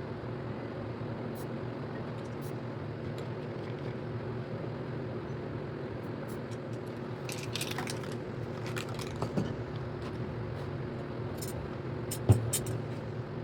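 Steady low mechanical hum with scattered small clicks and taps, and one sharper knock about twelve seconds in.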